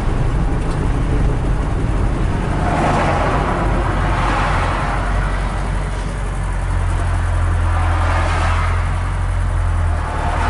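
Inside the cabin of a 1975 BMW 2002, its 2.0-litre four-cylinder engine runs steadily at low revs. Two broad swells of noise rise and fade about three and eight seconds in.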